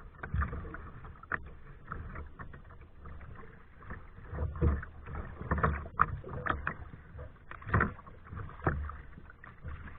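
Kayak paddle dipping and splashing in the water, stroke after stroke at an uneven pace.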